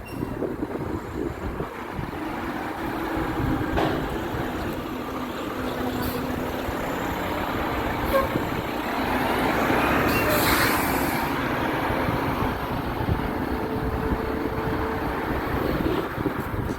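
Garbage truck's diesel engine running, with a few short clanks and a burst of air hiss near the middle.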